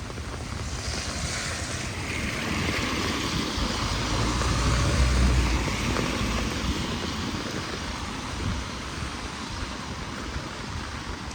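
A vehicle passing along the wet street: a hiss with a low rumble that builds, peaks about five seconds in and fades, over steady heavy rain.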